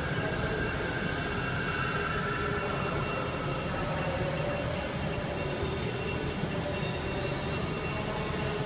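Electric multiple-unit train running at the platform: a steady rumble with a faint whine that slowly drifts down in pitch.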